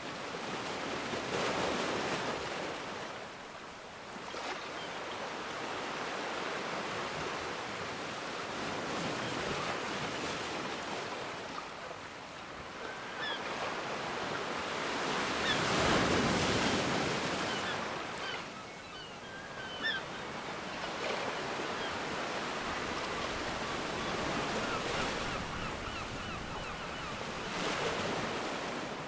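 Ocean waves breaking and washing in slow swells, the biggest about halfway through, with a few faint, short high chirps in the middle.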